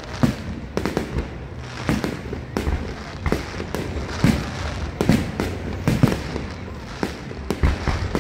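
Fireworks display: aerial shells bursting one after another at irregular intervals, about one bang every half second to a second, over a constant low rumble.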